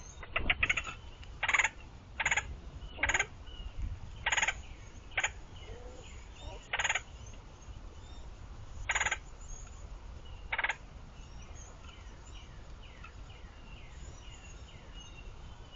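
Red-headed woodpecker giving harsh, rolling calls, about ten of them spaced a second or so apart, which stop about eleven seconds in. Faint, quick descending chirps of another bird follow.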